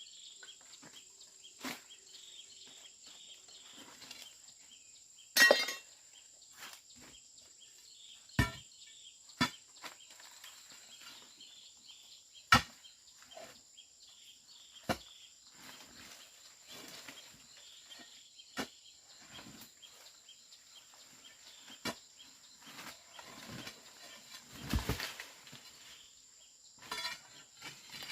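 Scattered sharp knocks and clicks, irregular and a second or more apart, over a faint, steady, high-pitched insect drone.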